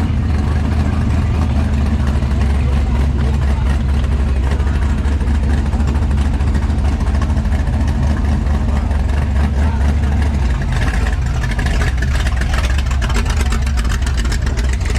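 A car engine running with a steady, deep rumble, with a rougher, brighter stretch about eleven seconds in.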